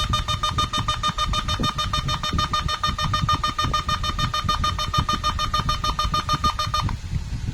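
Ferrari 360's electronic warning beeper sounding a fast, even run of beeps, several a second, that stops near the end. A low rumble runs underneath.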